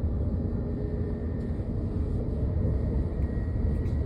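Train running at speed: a steady low rumble with a faint high whine.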